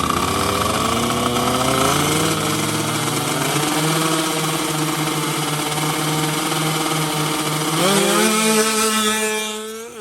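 Two-stroke underbone racing motorcycle engine at full throttle, high and buzzy: the pitch climbs, holds, climbs again about eight seconds in, then fades away near the end.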